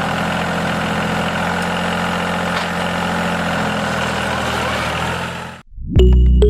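A motor or engine running steadily at an even speed. It cuts off about five and a half seconds in, and music begins just after.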